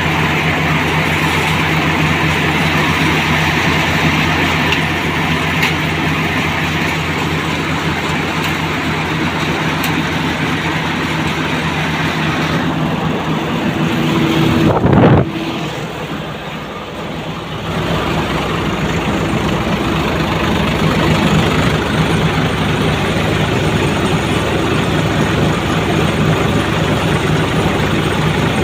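Tractor-driven multi-crop thresher running steadily, the tractor engine's drone mixed with the thresher's clatter and whir. About halfway through the sound swells, drops off sharply for a couple of seconds, then picks up again.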